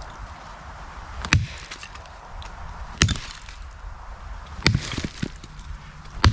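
Wood being chopped with a cutting tool: four sharp strikes, roughly one every second and a half to two seconds.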